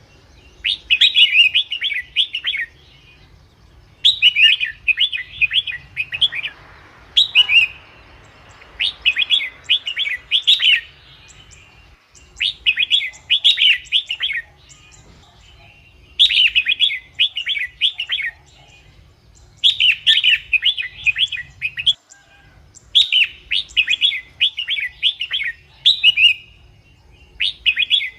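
Red-whiskered bulbul singing: short phrases of quick, chirpy notes, each about two seconds long, repeated every few seconds.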